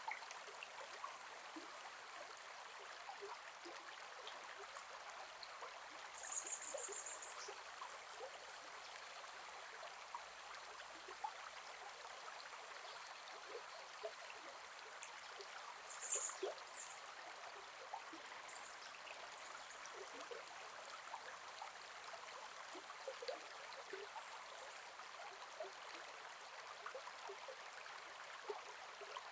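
Gentle forest river flowing: a steady babble of water dotted with small splashes and gurgles. Two brief high chirps stand out, about six and sixteen seconds in.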